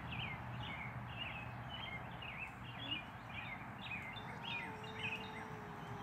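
Small birds chirping, short high chirps two or three a second, over a steady outdoor background hiss; a faint steady drone comes in past the middle.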